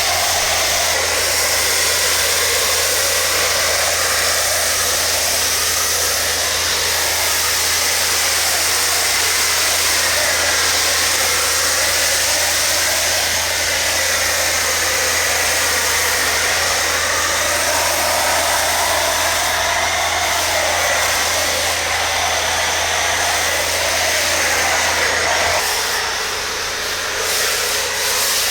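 Electric air blower running continuously, its rushing air wavering slightly in pitch over a steady low hum, as used to dry a car after washing.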